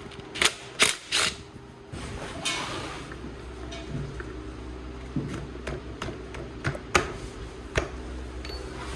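Sharp clicks and clinks of metal tools and parts being handled during motorcycle fork work, three close together in the first second and scattered knocks after. A steady low hum sets in about two seconds in.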